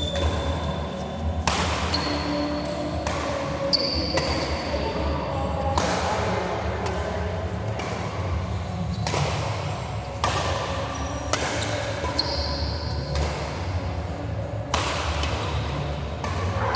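Badminton rally in a sports hall: racket strikes on the shuttlecock about every second or so, each ringing in the hall, with short high shoe squeaks on the court between hits.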